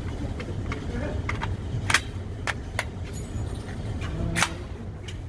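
Gunshots on a shooting range: a handful of short, sharp reports over a steady low rumble, the loudest about two seconds in and another about four and a half seconds in.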